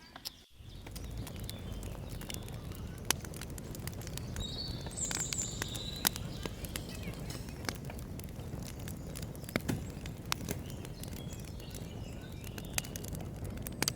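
Steady outdoor noise scattered with sharp ticks and pops, with a bird calling briefly a few seconds in.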